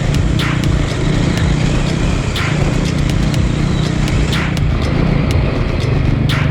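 KTM 890 Adventure R's parallel-twin engine running at a steady throttle while riding, with a sharp click or knock about every two seconds.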